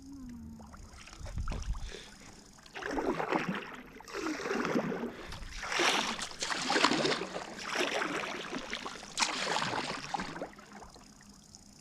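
Kayak paddle strokes in lake water: a series of about six splashing, dripping strokes a second or so apart, then the water settles near the end.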